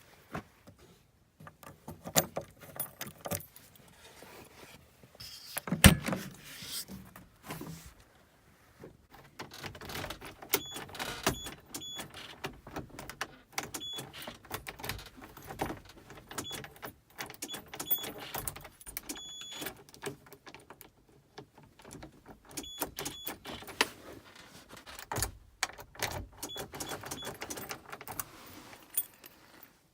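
A bunch of keys jangling and clicking as it is handled, on and off throughout, with one heavier thump about six seconds in.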